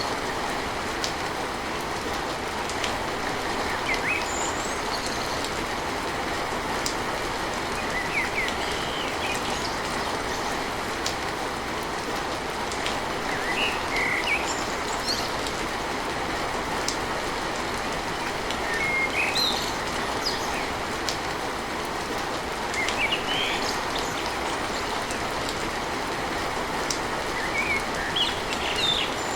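Steady heavy rain drumming on a tin roof, with individual drops ticking on the metal and birds chirping now and then.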